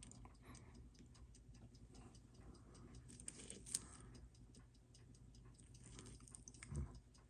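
Near silence with faint, regular ticking, several ticks a second, from a timepiece, and one slightly louder click a little past the middle.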